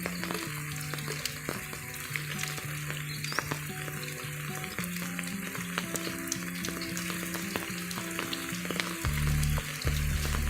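Monsoon rain falling steadily: a dense hiss full of the small clicks of drops. Slow background music with sustained low notes plays underneath, its low notes swelling loudly near the end.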